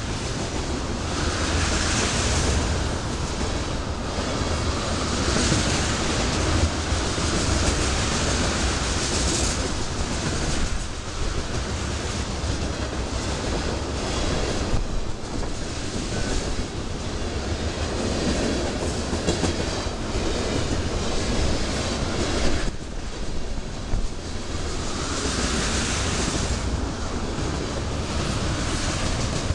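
Loaded ethanol tank cars of a freight train rolling past close by, their wheels clicking over the rail joints over a steady low rumble. A hiss swells and fades every few seconds.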